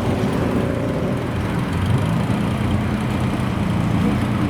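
Car engine idling steadily with a low, even note.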